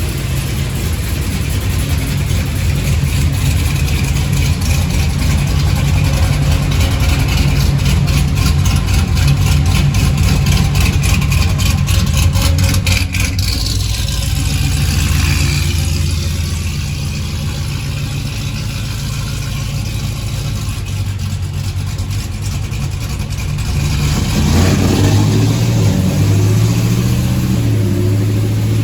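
Magnuson-supercharged 6.2 L V8 of a Chevrolet Silverado 1500 pickup running under load on a chassis dyno during a pull in fifth gear, building to its loudest about 13 seconds in. It then drops off with a falling whine and runs more quietly, before picking up again near the end.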